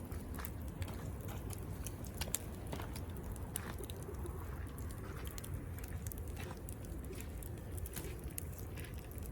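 Campfire crackling: scattered sharp snaps and pops of burning wood over a steady low rumble.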